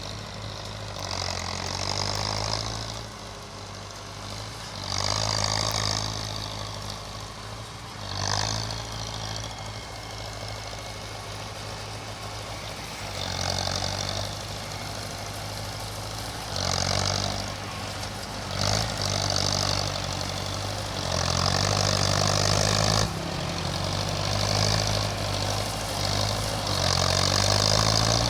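Belarus tractor's diesel engine running steadily while working hard ground. Repeated louder surges of rushing noise, each lasting a second or two, come over the drone, more often in the second half.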